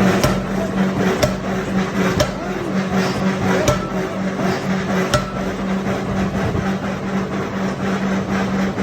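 Forging-shop machinery running with a steady low hum, with sharp knocks about once a second at first and a last one about five seconds in.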